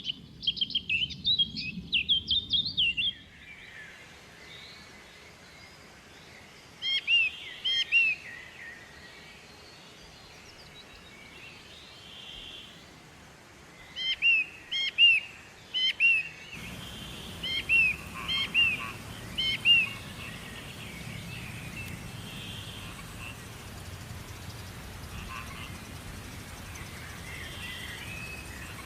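Birds chirping in several short runs of quick, high calls with quiet gaps between, over a faint steady background hiss that gets louder about halfway through.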